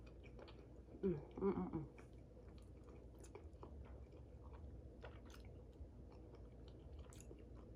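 A person chewing a mouthful of lasagna, faint wet mouth clicks scattered throughout. About a second in, a short two-part hum from the eater's voice is the loudest sound.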